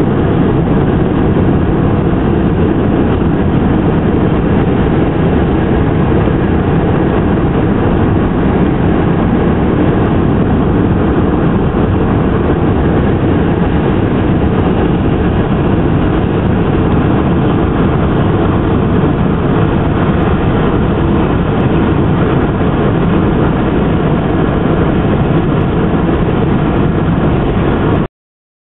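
Freight train hauled by a DL-class diesel locomotive passing close by: a loud, steady rumble of engine and wheels. It cuts out abruptly near the end.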